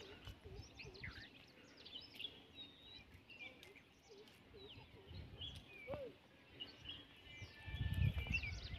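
Several birds chirping and calling in scattered short whistled notes over faint outdoor background noise, with a low rumble near the end.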